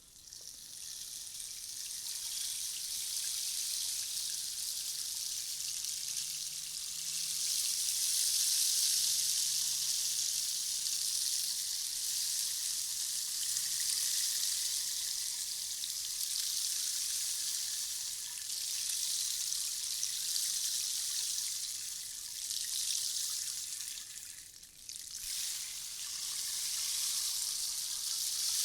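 Handmade rainstick, a tube about half a metre long, being tipped so its filling trickles down inside as a continuous rain-like hiss that swells and eases. The flow almost stops about 25 seconds in, then starts again.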